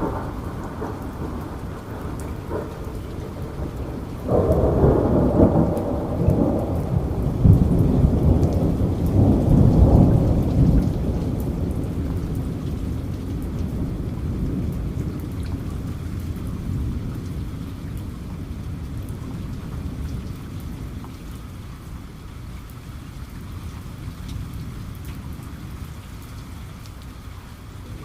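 Steady rain falling, with a roll of thunder that breaks about four seconds in, is loudest for several seconds, and then slowly dies away.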